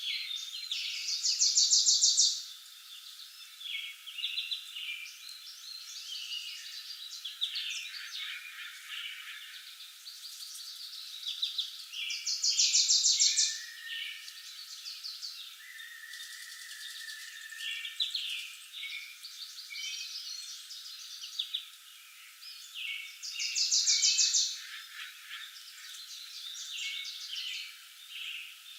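Several forest birds singing and chirping. One bird repeats a loud, fast trill about every eleven seconds, each burst lasting a second or so.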